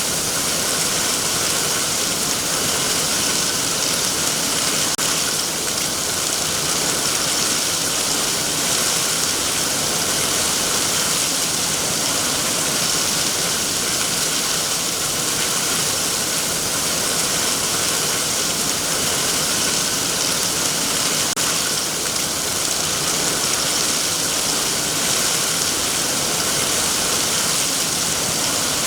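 Heavy rain falling steadily on trees, a dense, even hiss of drops with no pause or change.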